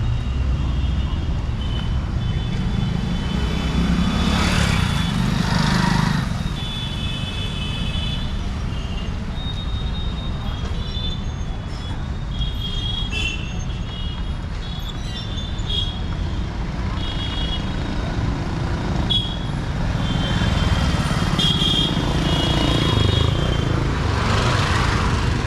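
Busy street traffic: a steady engine rumble with vehicles passing close by, and short high-pitched horn toots sounding again and again.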